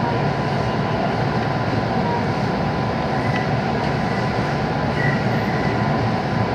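JR 221 series electric train running, heard as a steady rumble from inside the passenger car. The train is running slowly under a typhoon speed restriction.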